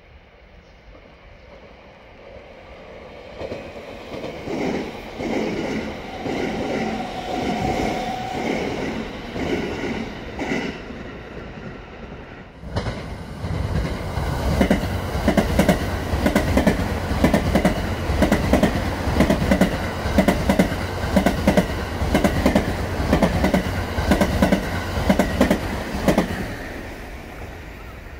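JR West limited express electric trains passing: the first rolls through with a rising rumble and a rhythmic clatter of wheels over rail joints, then after an abrupt cut about 13 seconds in a second one passes close by, louder, with rapid clickety-clack of wheels on joints, fading near the end.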